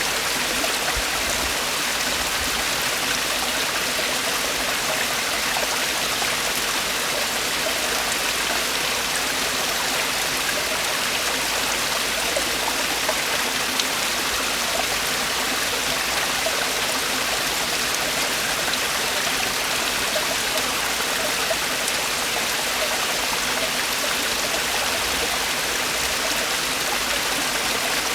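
Mountain stream water falling and rushing over rocks in a valley: a steady, even splashing rush.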